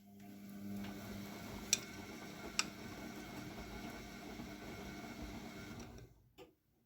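AEG Lavamat W 1450 washing machine running, a steady motor hum with a rumble as the drum turns the towels, two sharp clicks a little under two seconds and two and a half seconds in. It stops suddenly about six seconds in, followed by a single knock.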